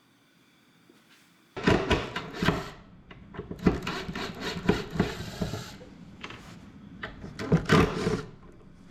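A run of irregular wooden knocks, clatters and scrapes, starting suddenly about a second and a half in and easing off near the end.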